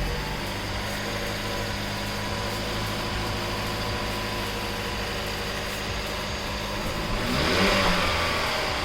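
The 2015 Jeep Cherokee's 2.4-litre four-cylinder engine runs steadily on its first start after a new oil pan and fresh oil, and grows louder about seven seconds in.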